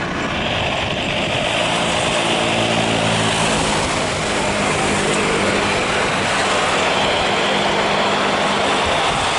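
Steady, loud roar of a jet airliner's engines, with a low hum under it.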